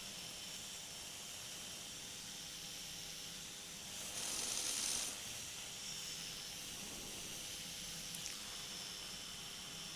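Flexwing microlight trike climbing out under power, heard as a steady hiss over a faint low engine hum. A louder rush of hiss comes about four seconds in and lasts about a second.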